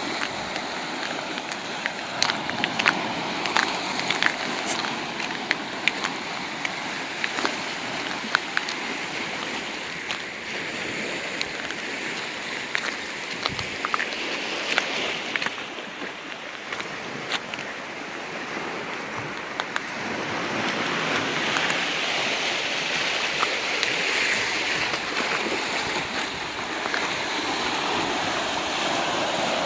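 Small sea waves washing among beach rocks, a steady hiss of moving water with many short sharp clicks through the first half. From about twenty seconds in, a larger wash of water swells louder.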